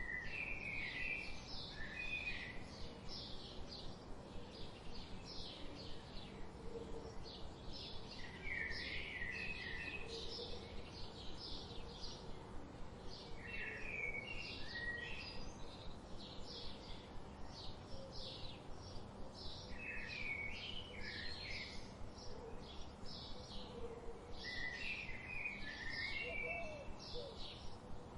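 Wild songbirds singing: one bird repeats a short high chirp over and over, about two or three a second, while another sings a brief warbled phrase roughly every five or six seconds.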